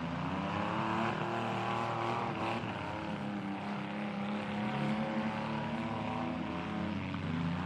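Demolition derby vehicle engines revving hard. The engine pitch climbs in the first second, then holds high and steady.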